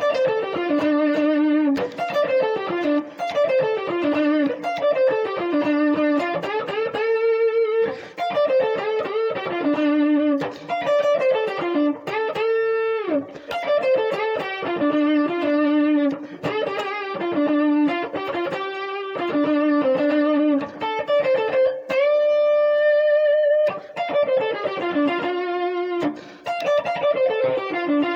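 Electric guitar playing an intense minor pentatonic blues solo: quick falling runs of picked and bent notes, phrase after phrase, with one long held note about 22 seconds in.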